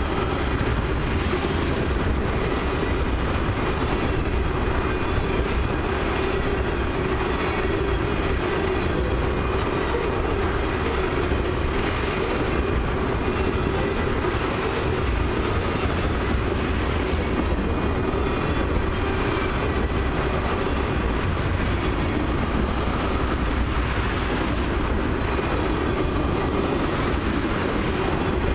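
Loaded ethanol tank cars of a long freight train rolling past close by: a steady rumble and clatter of steel wheels on the rails.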